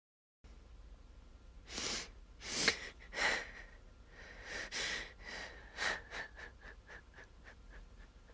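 A person sobbing: several heavy, shaky breaths, then a rapid run of short catching breaths that grow fainter near the end.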